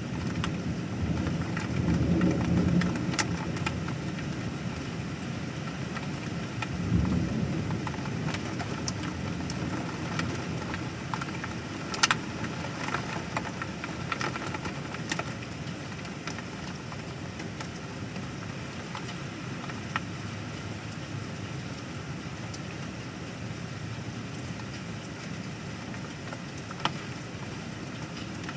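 Steady rain falling, with low rumbles of thunder swelling about two seconds in and again around seven seconds. A few sharp ticks stand out now and then.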